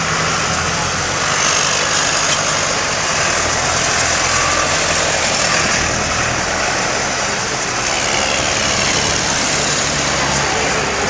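Several tractor engines running steadily as a line of tractors drives past.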